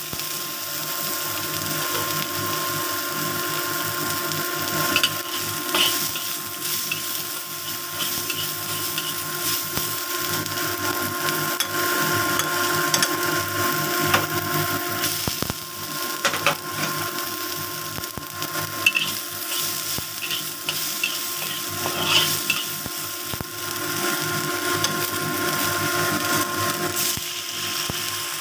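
Chopped shallots sizzling in hot oil in a wok, with a metal spatula scraping and tapping against the pan now and then. A steady hum runs underneath.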